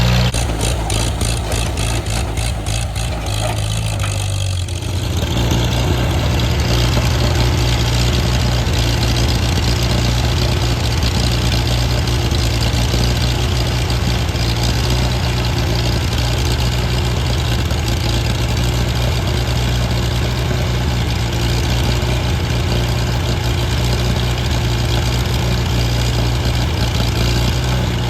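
Tractor engine running steadily. For the first few seconds there is a rapid regular ticking, about four or five a second; about five seconds in the engine note changes and then holds steady.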